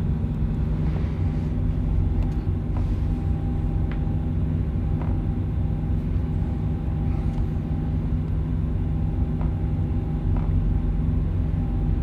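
An engine running steadily with a low, even hum, and a few faint clicks over it.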